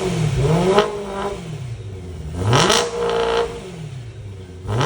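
2011 BMW M3's 4.0-litre V8 on its stock muffler with an X-pipe, free-revved at a standstill. The revs drop back at the start, there is a quick blip just under a second in, then a longer rev about two and a half seconds in that holds for about a second and falls back, and the revs climb again near the end.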